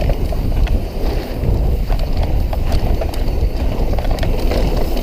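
Mountain bike riding fast down a dirt trail: wind buffeting the camera microphone over tyre rumble, with scattered clicks and rattles from the bike.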